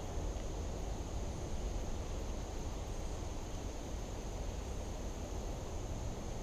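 Steady outdoor ambience: a constant high-pitched insect drone over a low, steady rumble.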